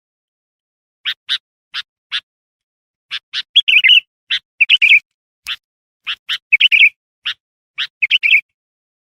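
Sooty-headed bulbul (kutilang) calling: a series of short, sharp chirps mixed with bubbly chattering phrases, starting about a second in and stopping shortly before the end, as played to lure wild birds.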